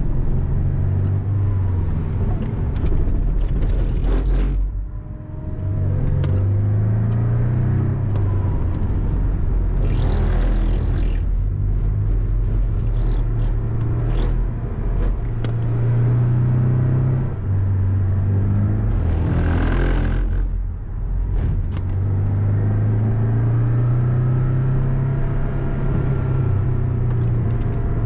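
Porsche 718 Cayman engine heard from inside the cabin, climbing in pitch again and again as it accelerates and briefly dropping away twice. There are a couple of short hissing rushes partway through.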